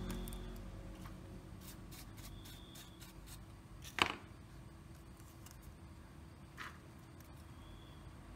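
Scattered faint clicks and taps, with one sharp, louder click about four seconds in and a smaller one a little later, over a low background rumble that fades away at the start.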